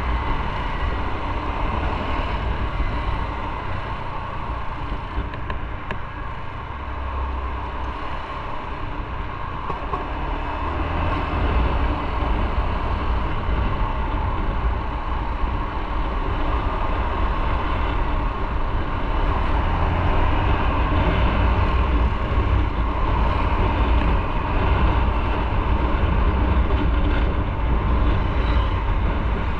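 Motorcycle riding: steady engine rumble mixed with the rush of wind and road noise. It eases off a little about a quarter of the way through, then builds louder again through the second half.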